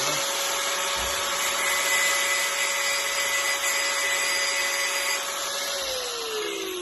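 Power tool motor running steadily with a high whine and hiss, then winding down with a falling pitch near the end.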